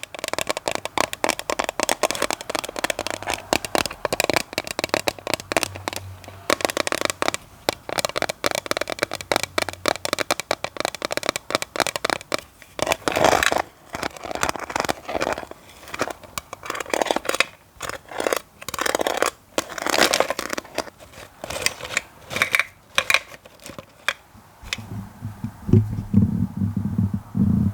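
ASMR tapping and scratching close to the microphone: rapid, irregular clicks and scratches. Near the end it gives way to low, muffled thumping.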